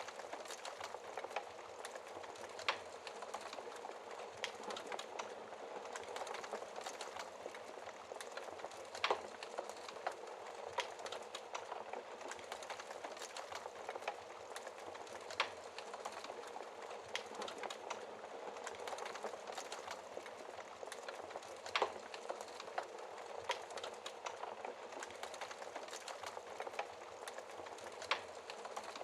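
Wood fire crackling in a fireplace: a steady hiss of small crackles, with a louder pop about every six seconds.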